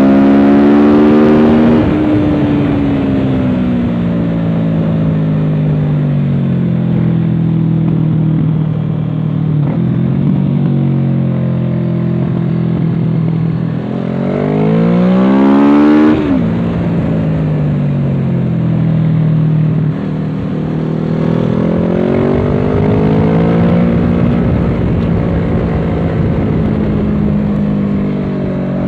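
Kawasaki Z650's parallel-twin engine through an aftermarket Dominator exhaust, heard onboard under way. The revs fall just after the start and hold at a middling pitch, then climb steeply to a peak about halfway and drop off abruptly. They rise and fall once more near the end, over a steady rush of noise.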